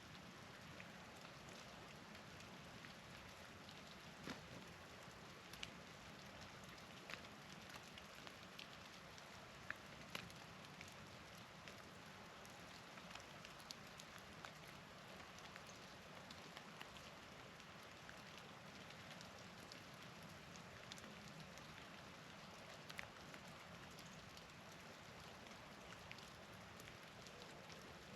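Faint steady hiss of falling precipitation with scattered light ticks and taps on surfaces, a few every several seconds.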